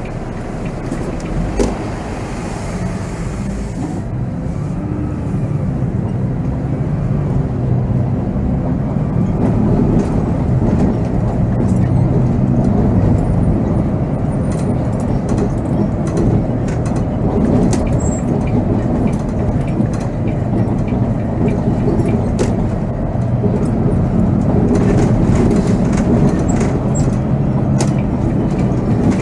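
Volvo B7R bus's diesel engine running under way, heard from the driver's cab, with scattered rattles and clicks. It grows louder about a third of the way in.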